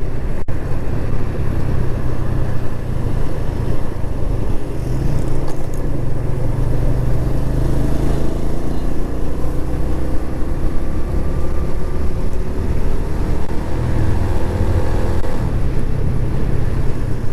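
Suzuki GS150 single-cylinder motorcycle engine running on the move, under a heavy low wind rumble on a clip-on lavalier microphone. The engine note climbs gradually through the second half as the bike speeds up.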